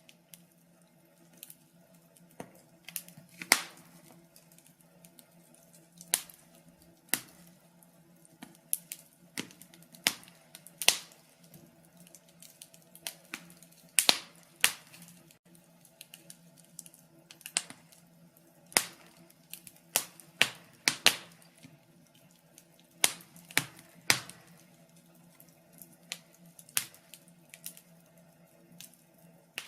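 Wood fire crackling: irregular sharp pops and snaps at uneven intervals, with a few louder cracks, over a faint steady low hum.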